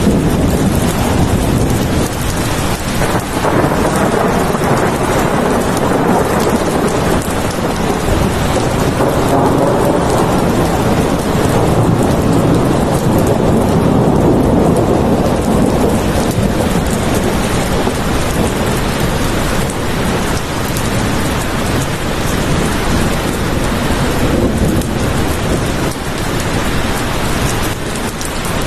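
Heavy rain falling steadily in a thunderstorm, with a low rumble of thunder swelling about halfway through.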